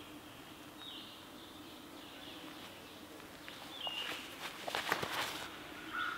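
Outdoor ambience: birds chirping in short high calls over a faint steady hum, with a few soft rustles and clicks about four to five seconds in.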